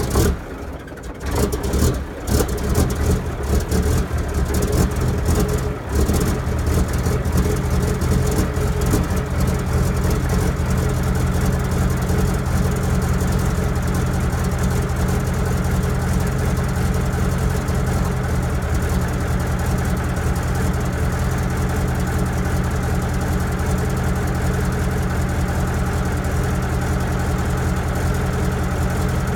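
Scania 142's 400 hp V8 diesel on straight pipes, just after a cold start. It runs unevenly with several dips in loudness for the first six seconds or so, then settles into a steady idle.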